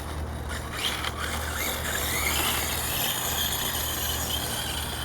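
1/5-scale Redcat monster truck on 8S power driving at light throttle: a steady drivetrain and motor whine with tyre noise, rising briefly in pitch in the first couple of seconds, and no knocking from the differentials.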